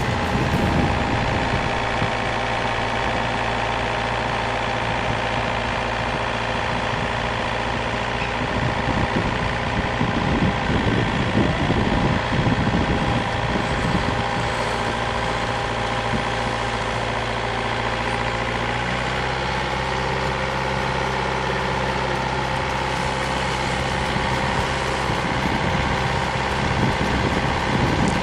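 Heavy machine engine running steadily at a constant speed, a little louder for a few seconds around the middle.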